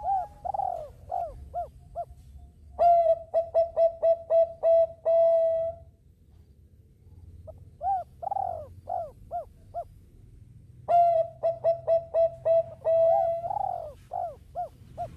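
Zebra dove (Bangkok-strain perkutut) cooing in two song bouts separated by a short pause, each a quick run of short, arching, rolling coo notes.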